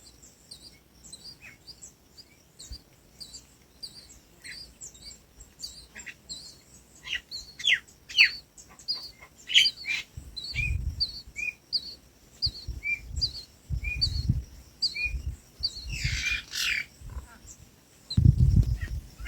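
Small birds chirping over and over in short high chirps, about two a second, with lower, louder chirps joining about halfway through. Bursts of low rumble come and go from about halfway on and are loudest near the end.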